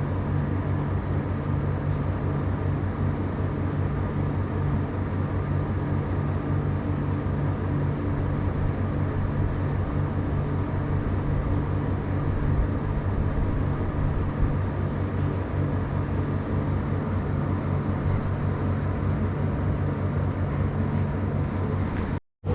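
Steady low mechanical hum with a faint high-pitched whine over it, cut off abruptly for a moment near the end.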